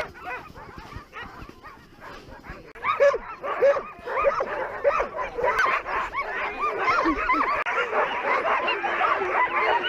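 A pack of sled dogs yelping and barking together, a few calls at first, then swelling into a dense, overlapping chorus about three seconds in: the excited noise of sled dogs eager to run.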